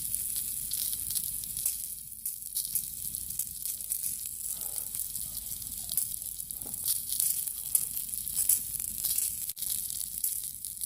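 Food sizzling over a campfire: a steady crackling hiss with many small pops.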